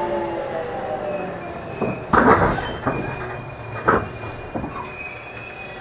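813 series electric train coming to a stop at a platform: the falling whine of its Toshiba GTO inverter dies away just after the start, leaving wheel and brake noise with a thin high squeal. Two louder noisy bursts come about two and four seconds in, with smaller knocks between.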